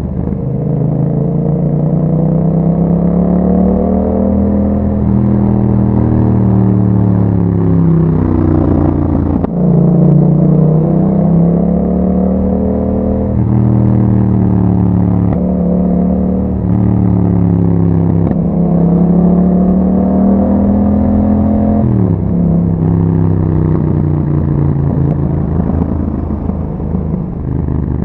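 A 2021 Yamaha MT-07's parallel-twin engine breathing through an Akrapovic exhaust, heard on a ride. Its note repeatedly rises under throttle and sinks off it, with a few sudden drops in pitch as it shifts gear.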